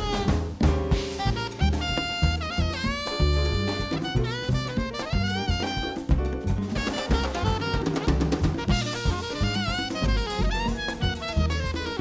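Live Latin jazz band: a saxophone plays quick lines of sliding, bending notes over a busy drum kit and bass.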